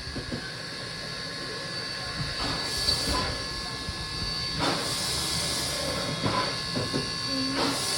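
Steam locomotive hissing steam over a low rumble, with three louder bursts of steam about two and a half seconds apart.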